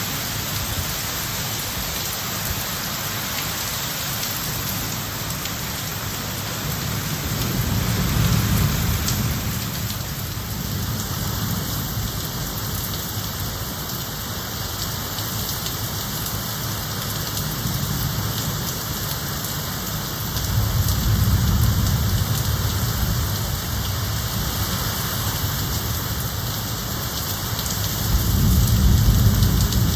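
Heavy rain falling steadily, with low rolls of thunder that swell and fade three times: about a quarter of the way in, again about two-thirds through, and near the end.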